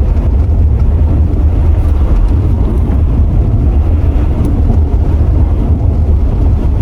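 Steady low rumble of a Mercedes R129 SL500 driving at a constant speed, heard from inside the car: road and wind noise over the V8, with no change in pace.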